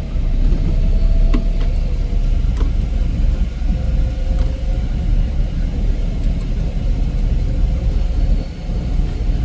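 Heavy snow-removal machine's engine running steadily, a loud, even low drone with a faint steady tone above it and a few faint clicks in the first few seconds.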